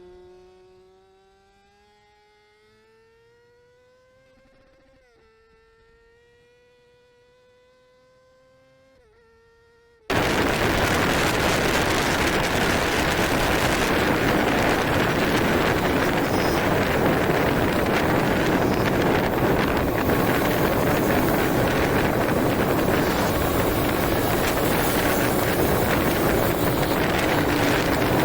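A faint motorcycle engine revving up, its pitch climbing and dropping twice as it shifts gear. About ten seconds in, an abrupt cut brings loud, steady wind rush buffeting the microphone of the moving bike.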